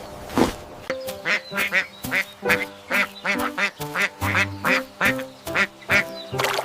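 A duck quacking over and over, about three quacks a second, starting about a second in, over background music.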